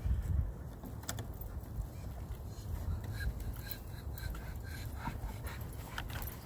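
Wind buffeting the microphone in a steady low rumble, with a dog panting and a few faint small sounds from the dog in the second half.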